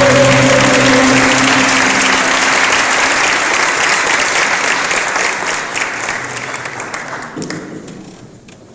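Audience applauding at the end of a song, with the final held note of the music dying out in the first second or so. The applause fades gradually and has nearly died away by the end.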